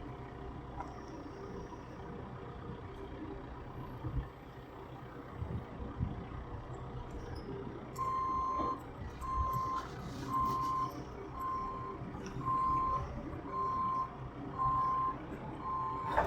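Vehicle engine running steadily; about halfway through a reversing alarm starts beeping, one beep about every second, as the vehicle backs up.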